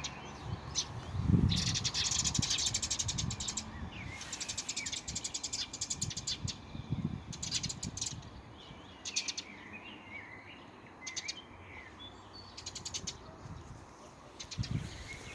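Wild birds singing, with rapid rattling trills and short gliding chirps repeating throughout; a low thump about a second and a half in, and another near the end.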